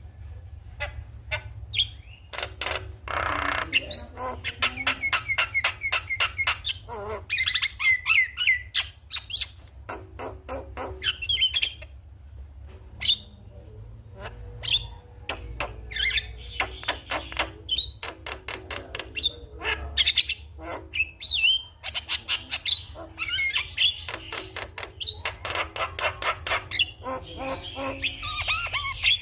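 Javan myna (jalak kebo) chattering: rapid runs of sharp clicks mixed with harsh squawks and whistled notes, in bursts with brief lulls, over a steady low hum.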